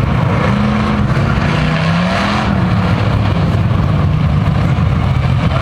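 Engines of a pack of Thunder Truck race trucks running on the track at low pace. One engine note rises slightly through the first couple of seconds.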